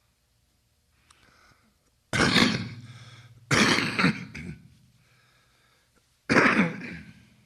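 A person coughing three times: two coughs a little over a second apart, then a third a few seconds later, each starting sharply and trailing off.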